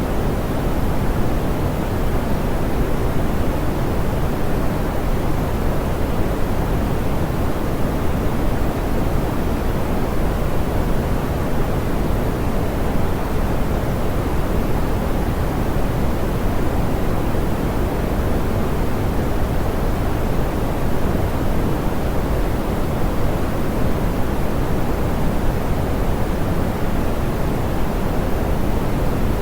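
Steady, soft pink noise: an even hiss weighted toward the low end, smoothed so that the high frequencies are rolled off, unchanging throughout.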